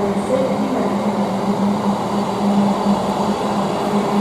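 Freight train hauled by a GB Railfreight Class 66 diesel locomotive running through the station at speed. Its passing makes a steady, even rolling noise with a constant low hum.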